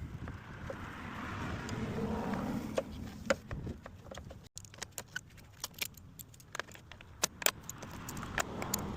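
Metal clinking and rattling as tools and hose-clamp parts are handled while radiator hoses are worked loose. A broad rushing swell comes first, then scattered sharp clicks and knocks.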